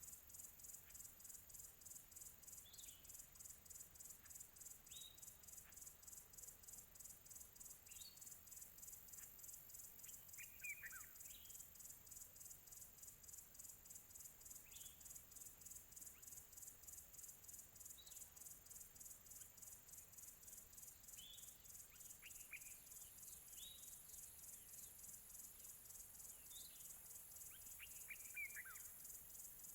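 Faint field crickets chirping in a steady, fast-pulsing high chorus, with distant birds giving short calls that drop in pitch every couple of seconds and a longer falling call twice.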